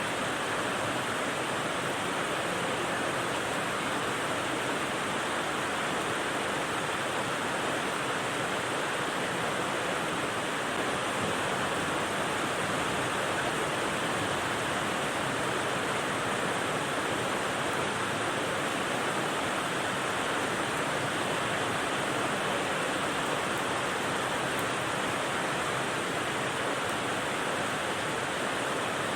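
Rain white noise: a steady, even hiss with no separate drops or changes.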